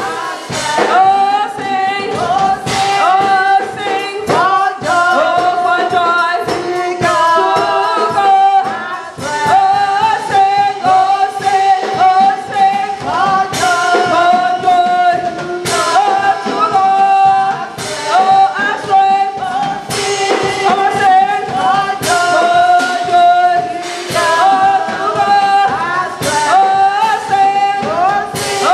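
Gospel worship song: a church choir singing with instrumental accompaniment and a regular percussive beat.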